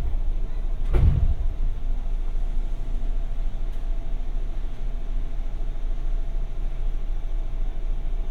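JR West 201 series electric train car standing at a station with its doors open: a steady low hum from the car's onboard equipment, with one dull thump about a second in.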